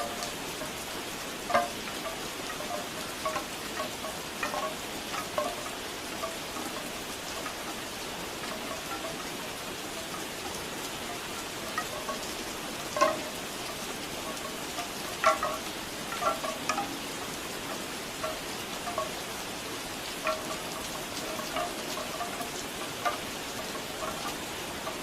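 Steady rain falling, with bamboo wind chimes clacking at irregular moments, in small clusters that are loudest about thirteen and fifteen seconds in.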